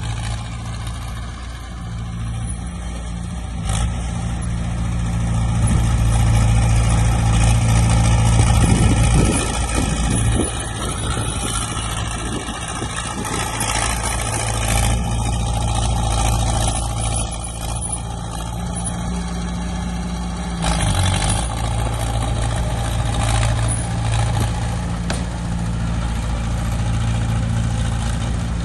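Heavy diesel engines of earthmoving machines running steadily, growing louder for a few seconds about a quarter of the way in, with a few brief knocks.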